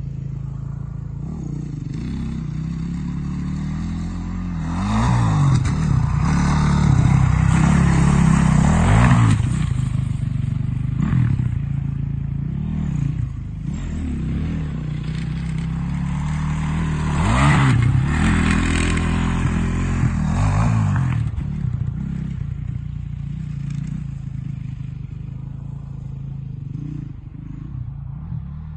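Honda CRF450's single-cylinder four-stroke engine being ridden, its pitch rising and falling as the throttle opens and closes, with two louder stretches of hard acceleration about five seconds in and again past the middle.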